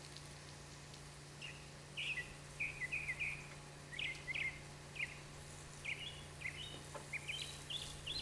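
A bird chirping repeatedly in short, quick calls over a steady low hum.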